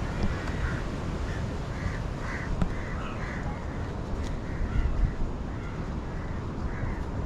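Crows cawing over and over, short harsh calls coming thick and fast, over a steady low rumble of wind and surf.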